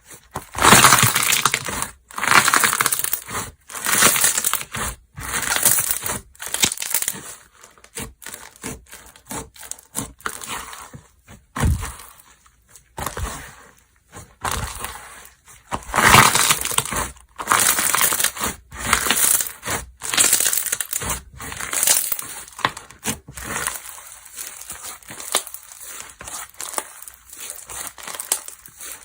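Slime being squeezed, stretched and pressed by hand, in repeated bursts about every one to two seconds, full of small clicks and pops.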